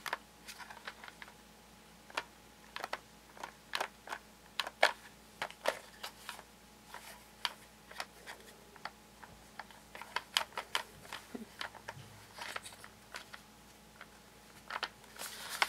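Plastic toy train-set pieces being handled and fitted together: a scattered run of small, irregular clicks and taps, several a second at times.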